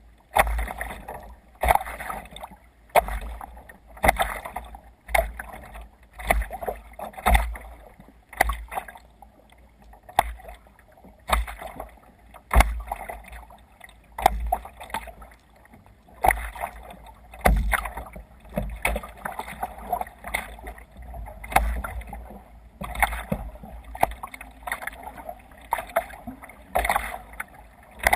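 Kayak paddle strokes, the blades splashing into the water on alternating sides about once a second, with water rushing along the hull between strokes.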